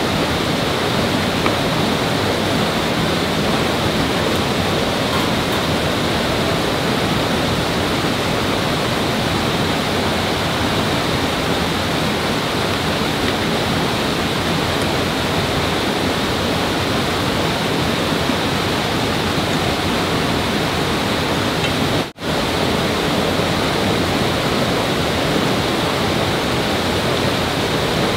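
Loud, steady rush of flowing water that cuts out for a moment near the end.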